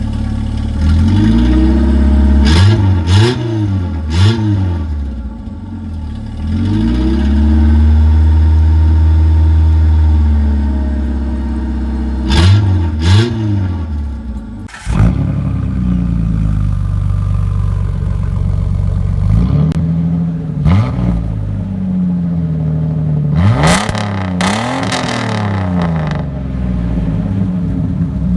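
A 1996 Chevrolet S10's 2.2-litre four-cylinder, run without its catalytic converter, is revved in quick blips and then held at high revs for a few seconds. About halfway through, it gives way to a 2001 Jeep Wrangler's straight-piped 4.0-litre inline-six idling between sharp rev blips.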